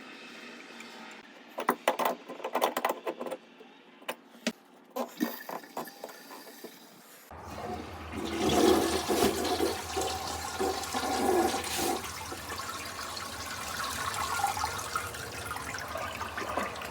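A few sharp knocks and clicks, then about seven seconds in a toilet flushes: water rushes loudly through the bowl and eases into a steadier refill. It is a test flush of a toilet just reseated on a new wax ring.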